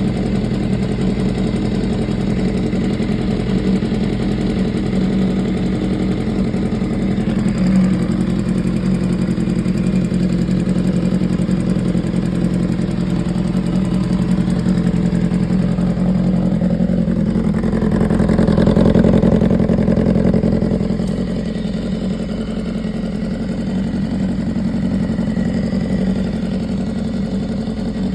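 2015 BMW S1000RR's inline-four engine idling, with a ticking from the top end of the engine. The engine picks up briefly about eighteen seconds in, then settles back to idle.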